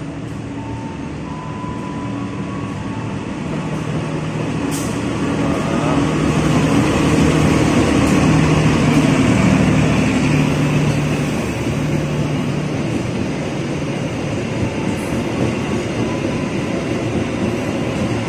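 Diesel-hauled long-distance passenger train running through the station without stopping. The locomotive's engine hums as it approaches, then the coaches roll past on the rails. The rumble builds to its loudest a few seconds in and eases slightly toward the end.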